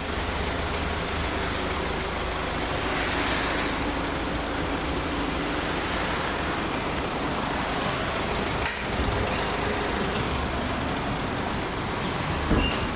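Steady motor-vehicle rumble with road traffic noise, and a short click about nine seconds in.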